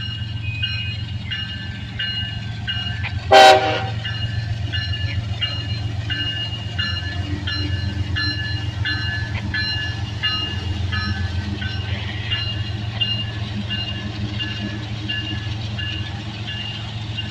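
CSX freight train's diesel locomotive running steadily as the train moves off, with one short horn toot about three seconds in. A high, repeating ding sounds about twice a second throughout.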